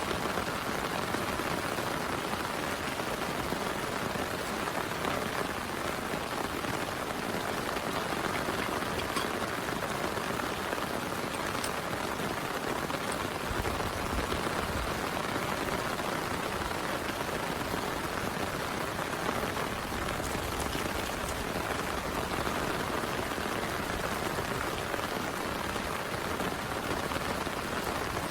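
Heavy rain falling steadily, an even hiss with a few separate drop ticks standing out now and then.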